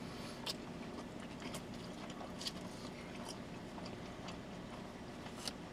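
Faint chewing of pizza, with a few soft, irregular mouth clicks, inside a car's cabin.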